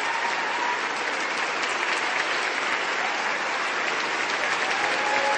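A crowd applauding steadily, a dense continuous clatter of many hands clapping.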